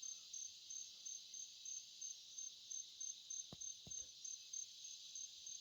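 Evening insect chorus: a steady high chirring with a regularly pulsing high note. Two faint knocks come about three and a half seconds in.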